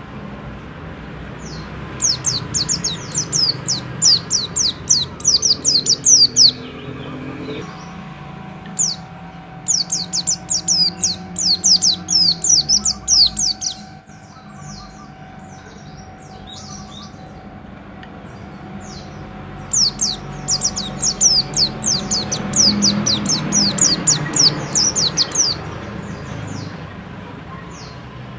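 A pleci (white-eye) singing in three bursts of rapid, high, downward-slurred notes, each burst several seconds long. A faint low steady background noise runs underneath.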